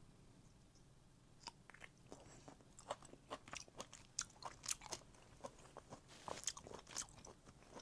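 Close-up eating sounds from goose barnacles: after a quiet second and a half comes a quick run of crisp crunching and clicking, the shell being broken open and the meat chewed.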